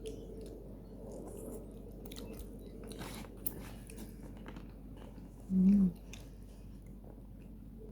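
Person chewing and biting a mouthful of nasi kuning, Indonesian yellow rice, with scattered small wet clicks. About two-thirds of the way in comes a brief low hum, the loudest sound.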